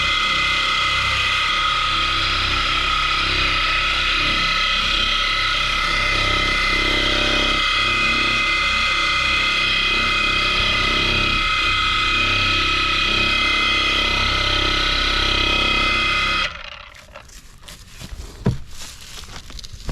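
Electric power tool running steadily with a high motor whine, then switched off after about sixteen seconds. A single sharp click follows about two seconds later.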